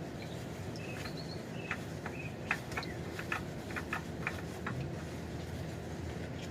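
Engine oil dripping from the underside of the engine into a drain pan: a run of short, irregular drips, thickest in the middle, over a steady low background hum, with a few faint high chirps.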